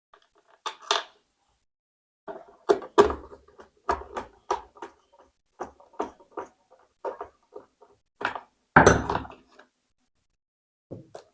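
Plastic casing of a fan room heater being handled and fitted back together: a string of irregular clicks and knocks, with a heavier thump about nine seconds in.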